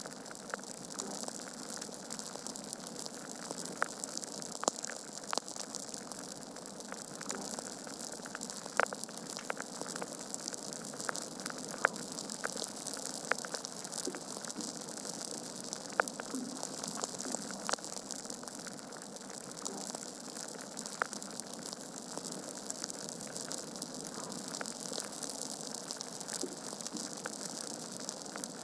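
Wood fire crackling in a fireplace: a steady hiss of burning with frequent irregular snaps and a few sharper pops.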